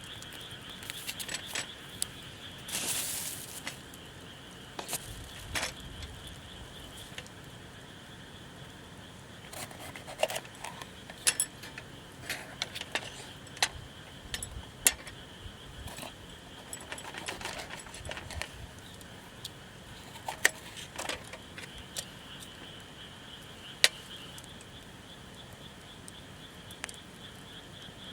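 Scattered clicks, taps and light clinks of camp cooking gear being handled, the sharpest about halfway through and again near the end, over a steady high-pitched chorus of night insects.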